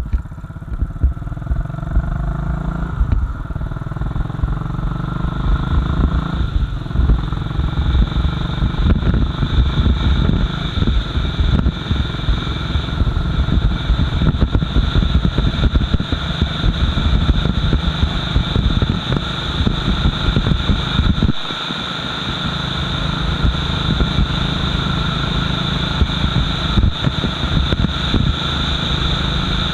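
Royal Enfield Bullet 500's single-cylinder engine running under way as the motorcycle is ridden, its pitch climbing in the first few seconds, with a brief drop in level about two-thirds of the way through.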